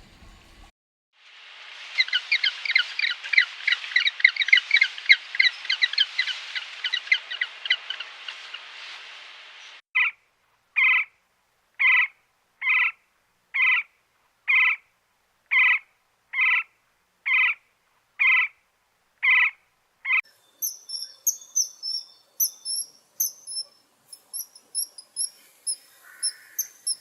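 Three kinds of animal calls in turn. First a dense, fast chirping chorus, then about a dozen short calls evenly spaced a little under a second apart, and near the end rapid high-pitched chirps.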